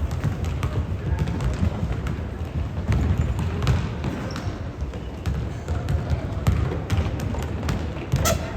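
A basketball being dribbled and bouncing on a gym floor in play, a string of irregular sharp knocks over background voices.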